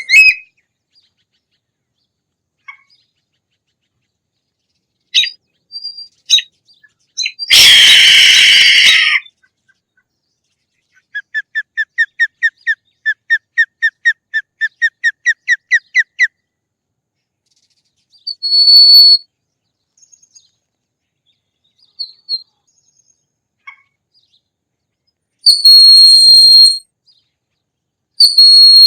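Hawk calls with silent gaps between them: a harsh scream, then a rapid chattering run of about twenty short falling notes, about four a second, then several high, thin whistled screams near the end.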